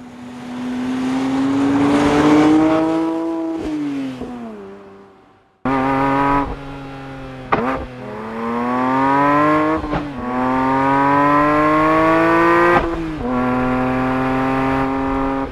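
Porsche 911 GT3 S/C's naturally aspirated flat-six engine at speed. First the car approaches with its note rising, then the pitch slides down as it fades away. A second run follows straight after, with the engine note climbing and dropping back at several gear changes of the manual gearbox.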